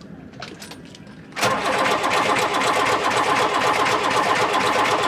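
Starter motor cranking a Mercedes OM636 four-cylinder diesel, starting suddenly about a second and a half in with a steady pulsing churn. The engine does not catch: a hard-starting engine after its glow plugs have been heated for six seconds.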